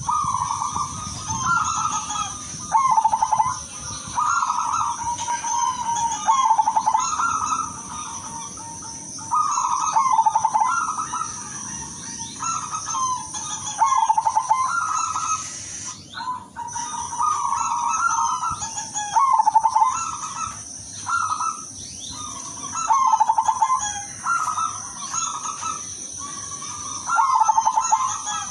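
Zebra dove (perkutut, silver variety) cooing: rolling, rapidly pulsed coo phrases repeated one after another every second or two, over a steady high-pitched hum.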